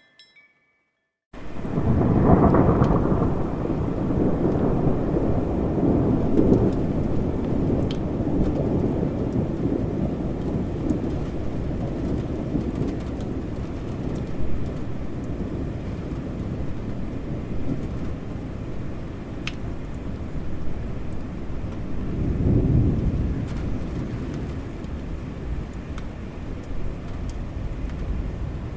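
Thunder rolling over steady rain. A loud low rumble starts abruptly about a second in and slowly dies away, and a second rumble swells near the end, with scattered raindrop ticks throughout.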